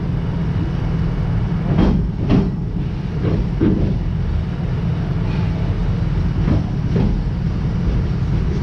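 Amusement-park passenger train rolling along its track: a steady low rumble, with three pairs of sharp clacks, each pair about half a second apart, as the wheels pass over the rails.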